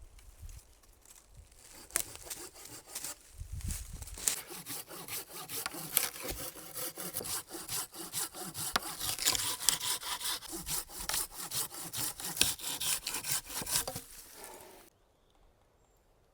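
Hand saw cutting through wood in rapid back-and-forth strokes, stopping abruptly near the end.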